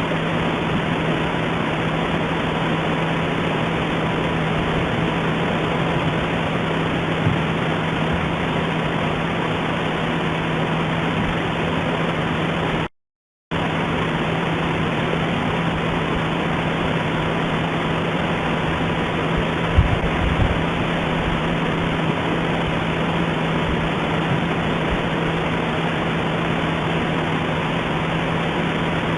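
Steady hiss with a low hum and a faint steady tone beneath it. It cuts out completely for about half a second near the middle. A few low thumps come about two-thirds of the way through.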